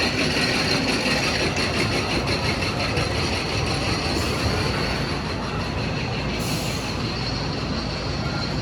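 Roller coaster train running along its steel track with a steady rolling rumble and rush.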